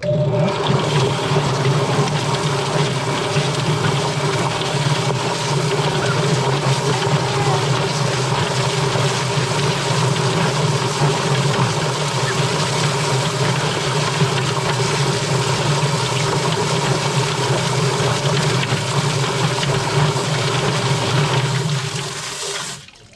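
Chicken plucker running: a steady motor hum under a loud, wet rushing hiss as the spinning drum works a scalded bird. It starts right at the outset and cuts off about a second before the end.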